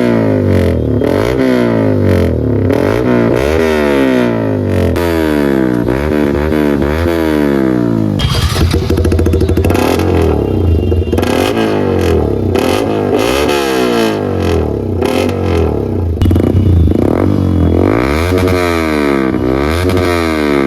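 Motorcycle exhaust as the engine is revved again and again, its pitch rising and falling with each throttle blip.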